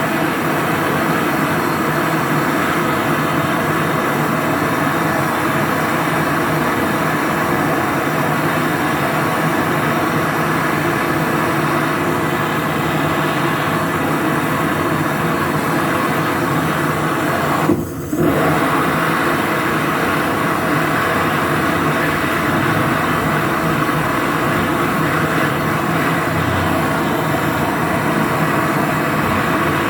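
Steady running noise of a machine with a constant hum, briefly cutting out about eighteen seconds in.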